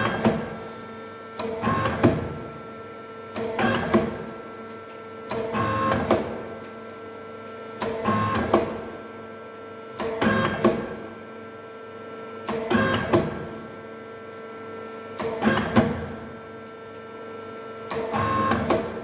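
CNC machine tool turret indexing over and over, about every two seconds. Each cycle is a short motor whir ending in a sharp clack as the turret locks, over a steady machine hum.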